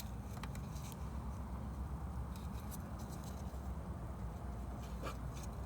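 A few faint, scattered clicks of small parts being handled and fitted during carburettor reassembly, over a steady low background rumble.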